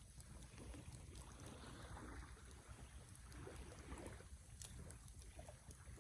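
Wood campfire burning quietly: a low steady rumble with a few sharp crackles and pops. Twice in the middle, a soft rushing swell rises and fades.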